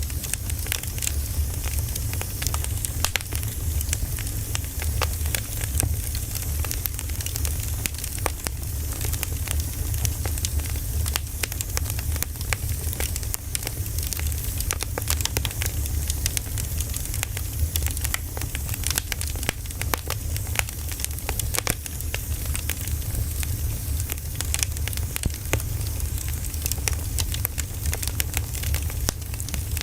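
Wood fire crackling: a dense, irregular stream of sharp pops and snaps over a steady hiss and a low rumble.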